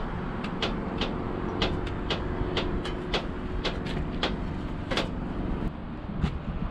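A vehicle engine running with a steady low rumble, with irregular sharp clicks, about one or two a second. A steady hum in it stops about two-thirds of the way through.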